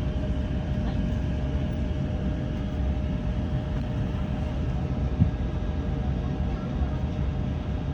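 Cabin noise inside an Airbus A350 taxiing after landing: a steady low rumble with a faint constant hum, and one short bump about five seconds in.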